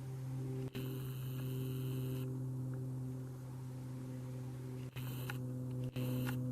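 A steady low electronic hum with several held overtones. Three times, at about a second in, near five seconds and near six seconds, a bright high shimmering tone cuts in abruptly for a moment.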